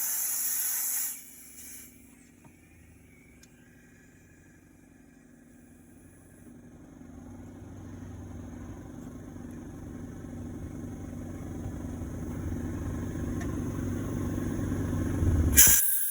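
The Monte Carlo SS's V8 engine, which has a rod knock, runs with a low rhythmic sound that grows steadily louder from about six seconds in. A loud hiss fills the first second. Near the end a sudden sharp noise sounds and the hiss returns.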